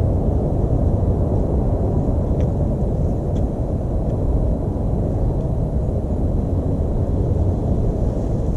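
A steady low rumble of outdoor background noise, like distant traffic or wind, with a few faint, brief high bird chirps above it.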